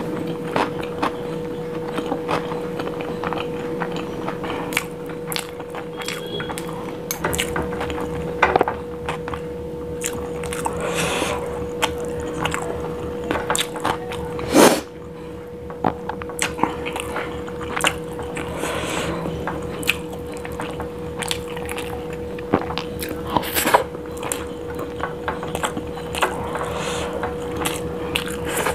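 Close-miked mouth sounds of eating biryani by hand: wet chewing and lip smacks with many small clicks, one sharper smack about halfway through. A steady faint hum runs underneath.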